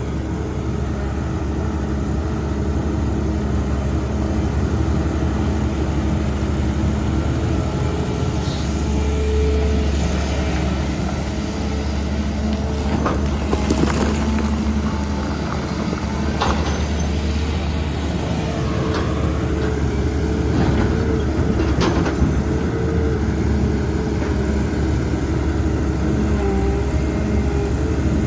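Heavy diesel engine of a hydraulic excavator running steadily, its pitch drifting slightly as it works. A few sharp knocks come through around the middle.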